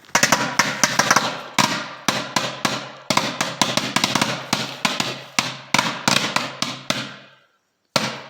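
Firecrackers exploding inside a microwave oven: a rapid, irregular run of sharp bangs, several a second, for about seven seconds, then one more bang near the end.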